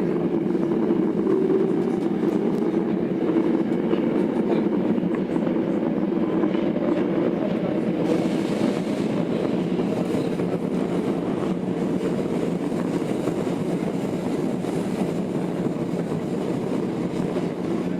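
Running noise heard inside a Tokyo Metro 02 series subway car (IGBT inverter set) on the Marunouchi Line: a steady rumble of wheels on rail, with a faint motor tone in the first few seconds that fades.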